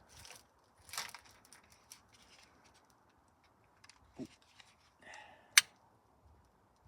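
A small fire of kitchen roll and a DVD crackling, with scattered quiet clicks and pops and one sharp loud snap about five and a half seconds in.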